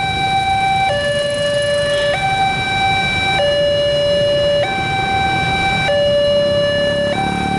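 Railroad level-crossing warning alarm sounding an electronic two-tone, a higher and a lower tone alternating about every second and a quarter, the signal that a train is approaching the crossing. A steady low rumble runs underneath.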